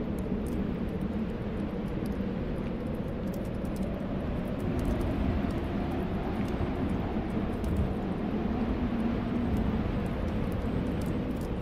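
Snowstorm wind blowing steadily with a low, wavering whistle, over faint crackling from a wood fire in a fireplace.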